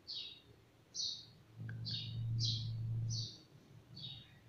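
A bird chirping over and over in short, high, falling chirps, about one every half second to second. A low hum joins in for a couple of seconds in the middle.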